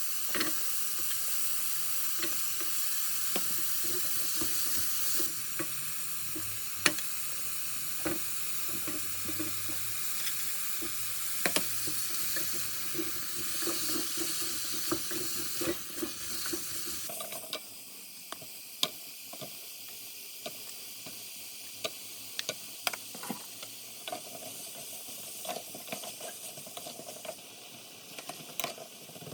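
Food sizzling in a hot frying pan while being stirred, with scattered clicks of a utensil against the pan. The sizzle drops to a quieter hiss a little past halfway, with the clicks going on.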